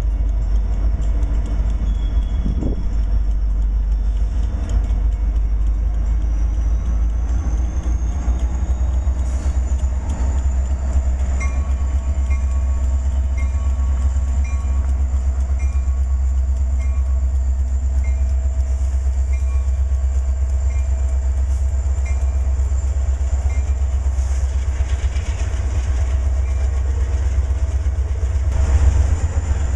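Union Pacific freight train passing close by: its diesel locomotives go by first, then autorack cars roll past with a steady, heavy low rumble of wheels on rail.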